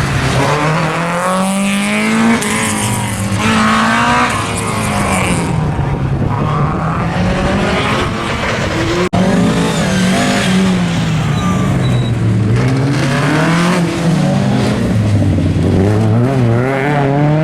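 Rear-wheel-drive rally car engine revving hard on a stage, its pitch climbing and dropping again and again through gear changes and lifts. There is a brief break about nine seconds in, after which the revving carries on.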